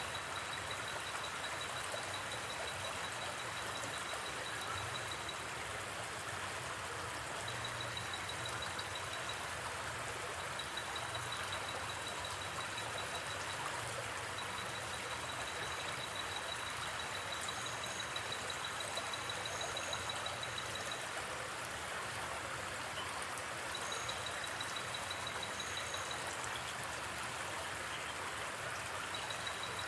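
Steady rush of a gently flowing river. Over it, a high, rapid chirping trill typical of night insects such as crickets starts and stops in stretches of a few seconds.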